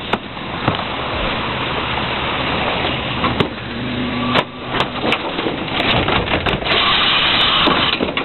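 Heil 5000 rear-loading garbage truck running, its engine steady, with sharp metallic clanks and knocks through the second half and a brighter hissing rush near the end.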